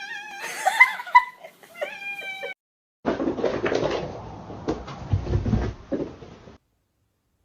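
A cat meowing several times in quick succession, the calls bending up and down in pitch. After a brief silence comes about three and a half seconds of noisy rustling and bumps.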